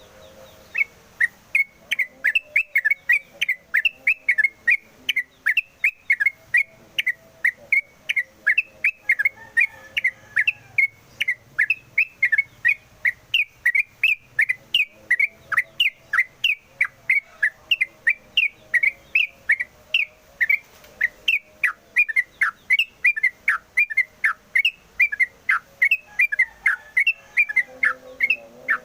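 Yellow-vented bulbul (trucukan) singing in full voice: a rapid, unbroken run of short whistled chirps, about three a second, starting about a second in.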